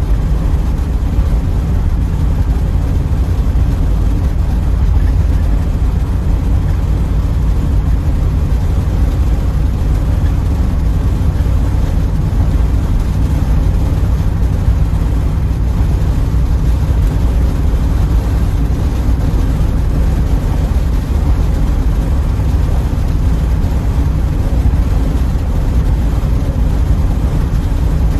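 A 1984 Pontiac Trans Am's V8 and tyres cruising at a steady speed: an even, unbroken low rumble of engine and road noise.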